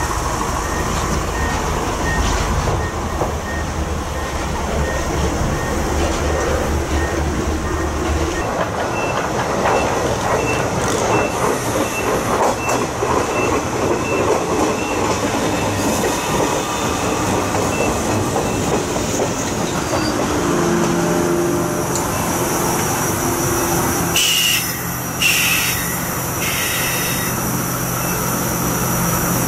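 JR West 105 series electric commuter train pulling into the station: a low rumble as it approaches, then wheels clattering and grinding on the rails as it passes close and slows to a stop. It settles into a steady hum, with two short hisses of air, typical of the air brakes, a few seconds before the end.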